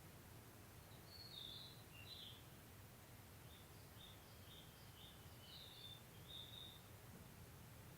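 Faint birdsong over a low steady rumble: two short high warbled phrases about a second in, then a run of short chirps repeated every half second or so.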